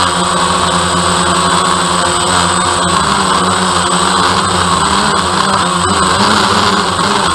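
DJI Phantom quadcopter's motors and propellers buzzing steadily in flight, a loud, even hum of several tones whose pitch wavers slightly.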